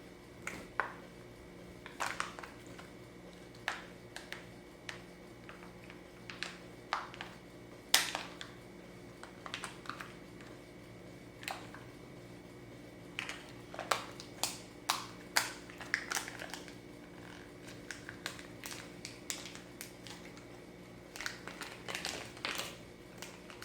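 Irregular small clicks and taps of the plastic pieces of a Kinder Surprise toy being handled and fitted together, over a faint steady hum.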